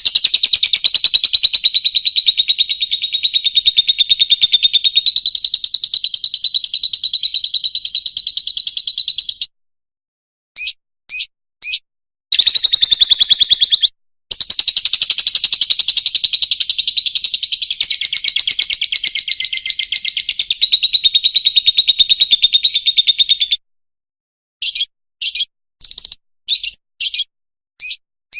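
Fischer's lovebird singing: two long runs of rapid, high-pitched chattering twitter, each cutting off suddenly, with short separate chirps between them and a string of quick single chirps near the end.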